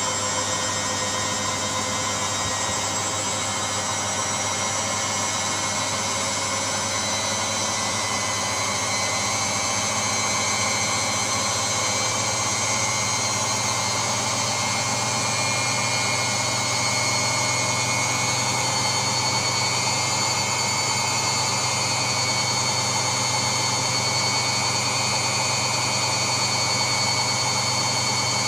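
Steady white-noise sound: an even, machine-like rushing with a low hum and a few faint steady tones, unchanging throughout.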